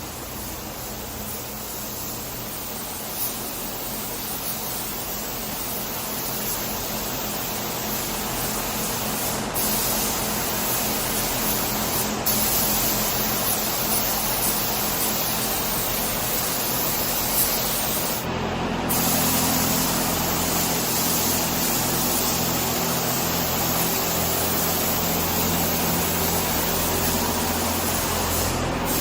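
Paint spray gun hissing steadily as paint is laid on, with a few brief breaks where the spray stops for a moment. A low steady hum joins about two-thirds of the way through.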